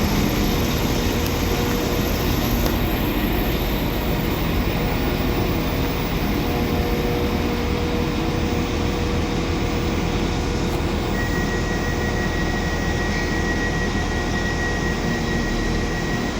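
Trains standing at a station platform, their engines and on-board equipment running steadily. A steady high whine joins about eleven seconds in.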